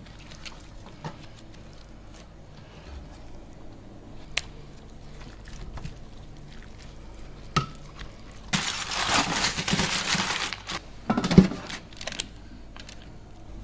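Gloved hands working garlic chili paste into a rack of lamb on a stainless steel tray: faint handling sounds and a few light clicks against the metal. About two-thirds in comes roughly two seconds of crinkling aluminium foil as the rack goes onto a foil-lined baking tray, followed by a sharp knock of the tray.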